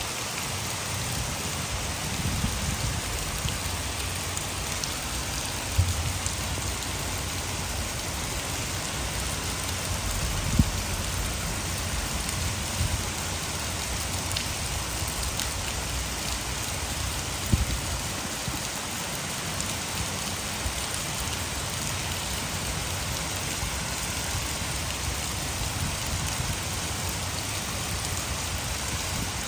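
Heavy rain falling steadily, an even hiss of rain on surfaces with falling water from a dam mixed in. Three brief low thumps stand out, spread through the stretch.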